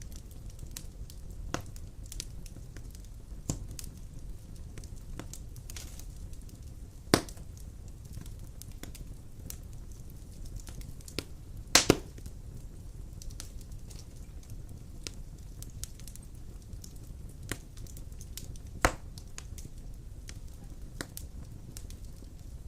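Wood fire burning in a fireplace, a steady low rumble with scattered crackles and sharp pops of burning logs; the loudest pops come about a third of the way in, a quick double pop just past the middle, and another near the end.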